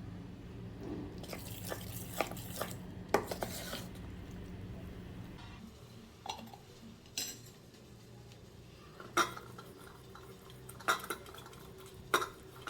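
Dishes and cutlery clinking and knocking in a kitchen, a dozen or so separate sharp clatters, over a low steady hum that stops about halfway through.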